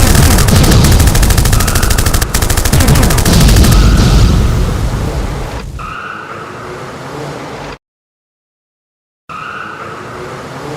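Cartoon battle sound effects: rapid machine-gun fire over a heavy explosion rumble, fading out over about two seconds. Then a quieter, steady effect, cut by about a second and a half of silence before it returns.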